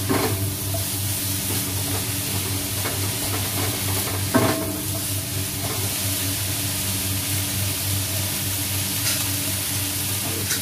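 Shredded cabbage and carrot sizzling as they stir-fry in a stone-coated wok, with a spatula stirring at the start and one sharp knock of a utensil against the wok about four seconds in, over a steady low hum.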